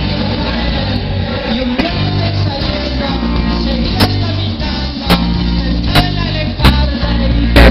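Rock band playing live: electric guitar and bass over a drum kit, loud and dense. In the second half the band hits a run of hard accents, five of them about a second apart.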